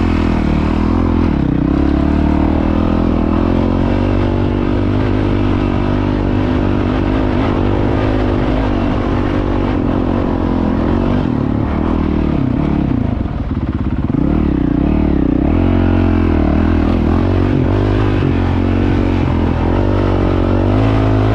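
Honda CRF450L's single-cylinder four-stroke engine running loud through a full Yoshimura exhaust, mostly steady, with a brief wavering dip in pitch and level about 13 seconds in.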